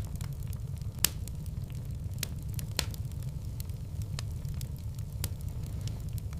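Fireplace fire crackling: sharp pops and snaps, the loudest about a second in and a few lighter ones after, over a steady low rumble.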